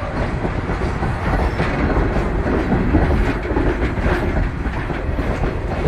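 Passenger train cars rolling along the track, a steady loud rumble of wheels on rails with irregular clicks as the wheels pass rail joints.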